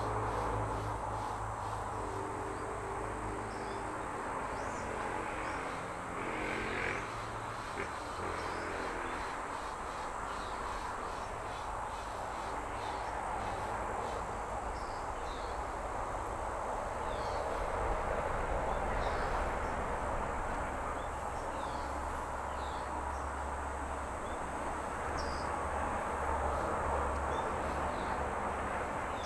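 Small songbirds giving short, scattered high chirps over a steady outdoor background hiss. A low hum runs under the first several seconds.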